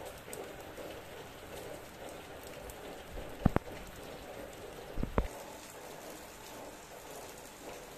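Steady rain falling, with two louder thumps, one about three and a half seconds in and a doubled one about five seconds in.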